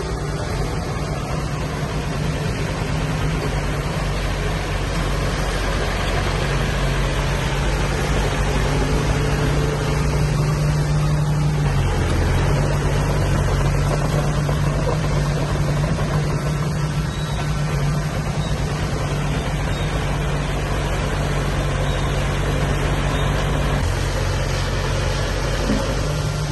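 Diesel engine of construction machinery running steadily, its note shifting briefly about halfway through.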